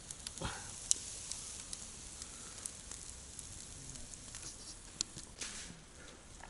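Food sizzling over a campfire: a steady hiss with scattered crackles and sharp pops, two of them louder, about a second in and about five seconds in.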